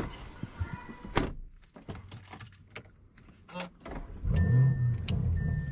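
A few clicks and light knocks, then about four seconds in a car engine starts and keeps running. A thin high beep sounds on and off over it near the end.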